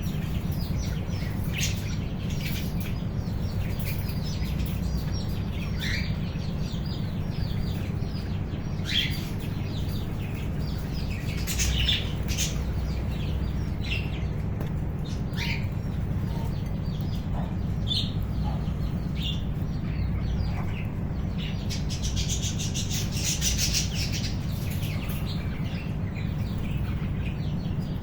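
A colony of budgies and cockatiels chirping and chattering, with scattered short high calls and a denser burst of chatter about two-thirds of the way through, over a steady low hum.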